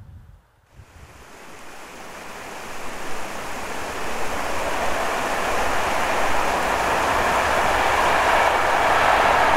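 Passenger train approaching: a steady rushing rail noise starts about a second in and grows louder throughout.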